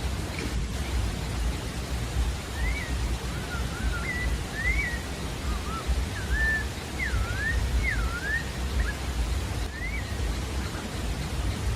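Sabiá-da-várzea singing a phrase of short clear whistled notes that slur up and down, over a steady low rumble.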